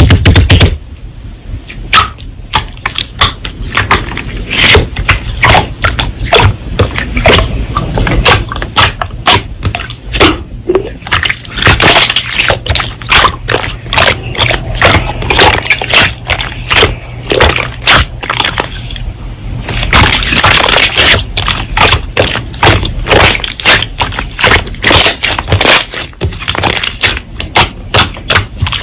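Slime being squeezed and pressed by hand, with dense, irregular clicks and pops, several a second.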